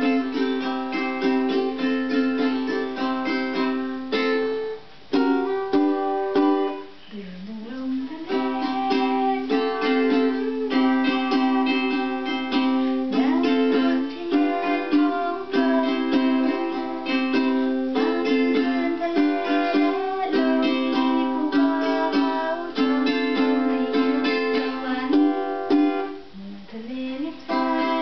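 Instrumental music on a plucked string instrument, a melody of quick picked notes over steady chords.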